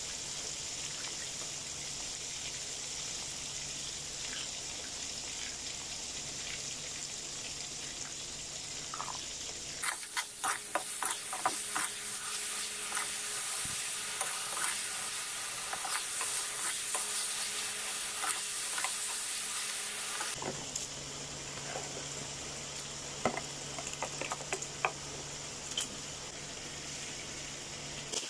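Food sizzling in a hot wok while a metal spatula stirs and scrapes against the pan. There is a busier run of spatula clicks and scrapes from about ten to twenty seconds in, over a low steady hum.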